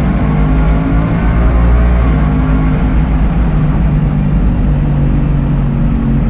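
Ford Mustang engine running at high RPM inside a road tunnel, a loud, steady engine note echoing off the tunnel walls.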